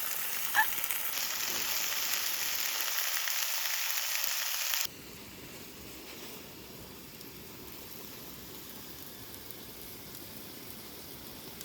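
Food sizzling in a hot frying pan, a steady crackling hiss. About five seconds in it drops suddenly to a much quieter, steady sizzle.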